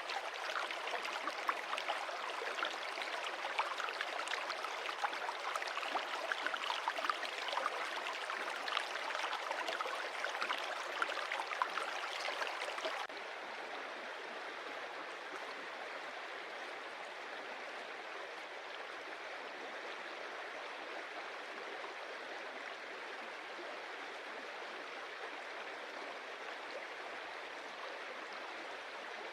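Stream water running and splashing over stones, with many small sharp splashes. About halfway through it changes abruptly to a smoother, slightly quieter steady rush of water.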